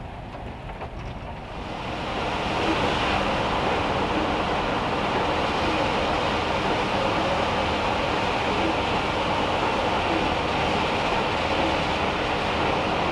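Heavy rain drumming on a van's metal roof, swelling to a dense steady hiss about two seconds in, over a low steady rumble.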